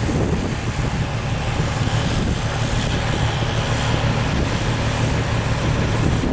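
A large engine running steadily at a constant low hum.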